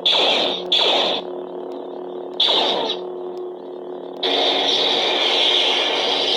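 Eleskoco toy lightsaber playing its "Dark Lord" sound font: a steady electronic hum with three quick swing swooshes in the first three seconds, then a louder sustained buzzing effect from about four seconds in.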